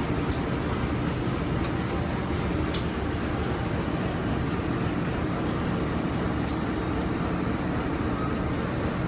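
Passenger train running, heard from inside the coach: a steady low rumble with a few sharp clicks at irregular intervals.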